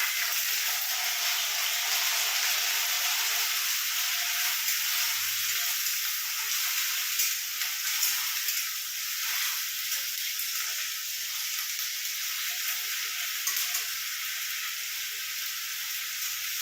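Onion paste frying in hot mustard oil in a pan: a steady sizzle that begins as the paste goes into the oil and eases slightly, with a few light clicks.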